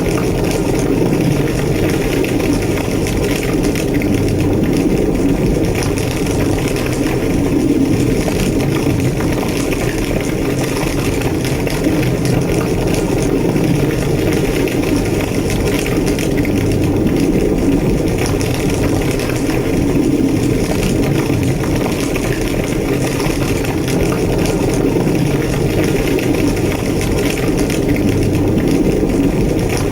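Large structure fire burning with a steady low roar and constant fine crackling.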